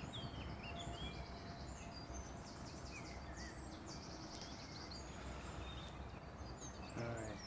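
Small birds chirping and singing in quick repeated phrases over a steady low outdoor rumble.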